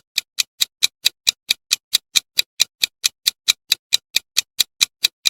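Clock-style countdown timer ticking, a sharp even tick about five times a second.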